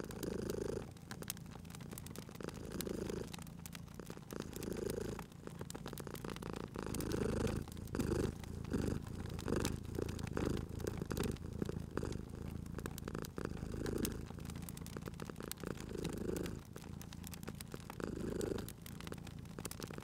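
Domestic cat purring, swelling and fading in waves with each breath and coming quicker in the middle, under frequent small crackles and pops of a wood fire.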